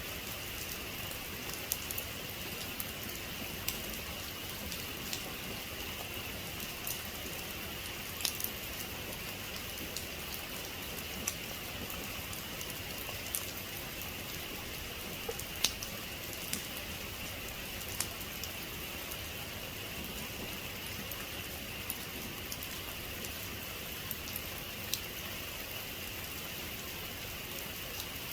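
Heavy rain falling steadily, with single drops ticking sharply every second or two above the even hiss.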